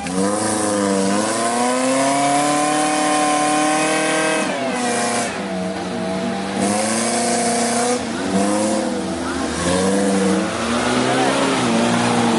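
Off-road jeep engine revving up and down under load through mud. It climbs steadily for a few seconds, drops sharply about four and a half seconds in, then rises and falls several more times.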